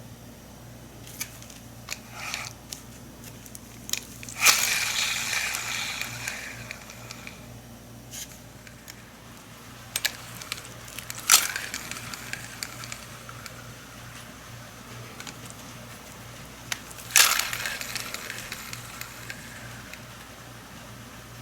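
Shimano Alivio 2500 spinning reel spun by hand three times after its bearing has been replaced: each spin starts with a sharp click and a whir that fades out over two or three seconds, with small clicks of handling between.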